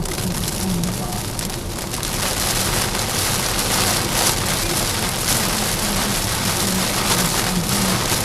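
Water pelting a car's body as a dense, steady hiss that grows stronger about two seconds in, over a low steady hum.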